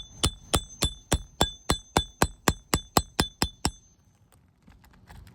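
Hammer tapping a steel nail puller about fifteen times in a steady, slightly quickening rhythm, each blow ringing metallically, to drive the puller's jaws under a roofing nail head beneath a shingle tab. The tapping stops shortly before the end.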